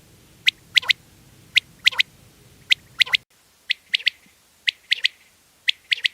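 Common quail singing its three-note 'wet-my-lips' call, a quick group of three short, sharp notes repeated about once a second.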